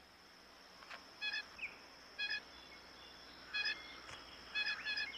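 Short bird calls, single brief notes about a second apart, with a quick pair near the end, over a faint steady high-pitched insect-like whine.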